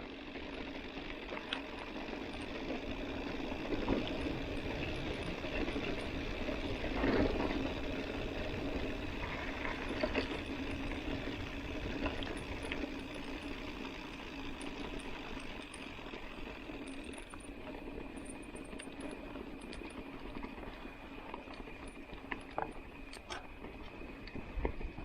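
Mountain bike riding on a dirt road: steady tyre and drivetrain rolling noise with a light hum, and a few short rattles and clicks.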